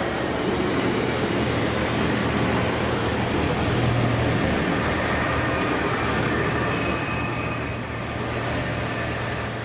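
Diesel train running along the track: a steady rumble of wheels on rail with a low engine hum. A high-pitched wheel squeal begins right at the end.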